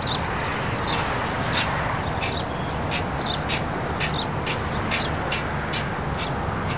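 Small birds chirping: short, high calls repeated about twice a second, over a steady background hiss.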